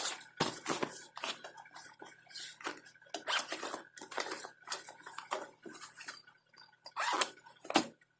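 Irregular clinks, knocks and rustles of small hard objects being handled and set down, as gear is taken out of a satchel.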